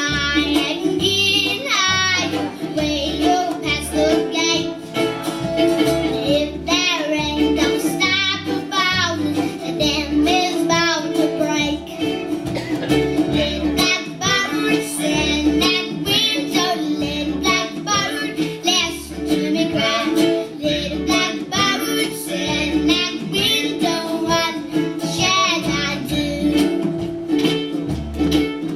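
A young girl singing a country song with plucked acoustic string accompaniment and a steady low bass line.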